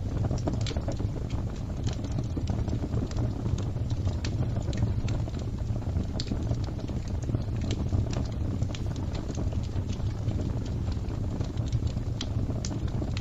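Fire crackling: a steady low rumble of flames with many irregular sharp pops and snaps.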